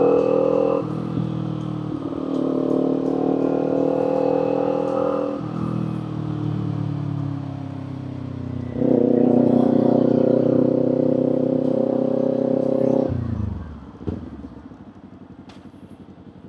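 Kawasaki Z400 parallel-twin engine and exhaust under way, the throttle worked on and off. Its note dips near the start, falls in pitch as the bike slows through the middle, comes back sharply on the throttle, then drops off about thirteen seconds in to a quiet low idle.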